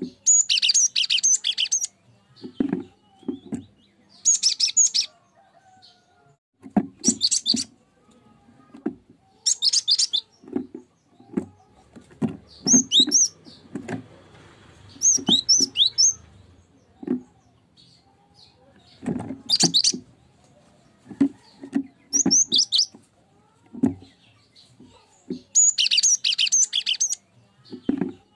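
Cinereous tit (gelatik batu) singing: short bursts of rapid, high, repeated whistled notes every two to three seconds, with soft low knocks in between.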